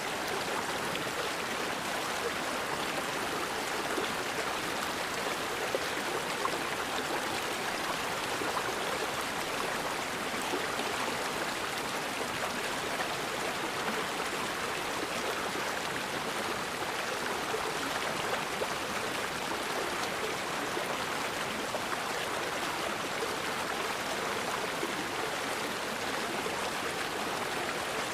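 Forest river flowing over rocks: a steady, unbroken rush of water.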